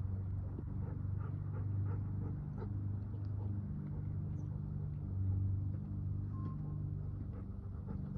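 Steady low hum with scattered light ticks and steps, typical of a person walking a dog on a leash.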